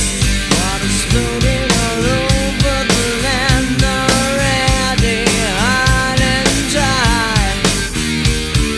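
Rock music with a steady drum beat and a bending, gliding lead melody line over it.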